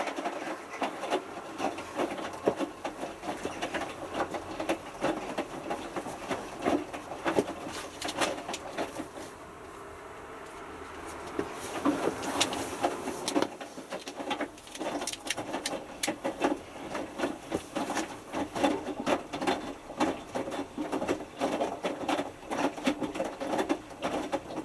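Hotpoint Futura washing machine drum tumbling during the main wash, with water sloshing and the small load of wet t-shirts splashing and dropping in an uneven patter. It eases off for a couple of seconds about ten seconds in and stops abruptly near the end as the drum pauses.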